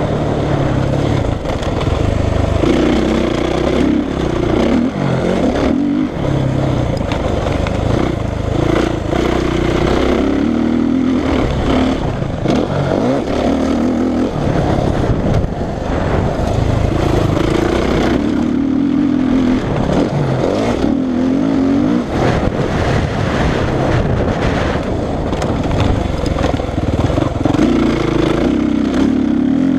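Suzuki RM-Z450 motocross bike's four-stroke single-cylinder engine being ridden hard, its pitch repeatedly climbing under throttle and dropping back.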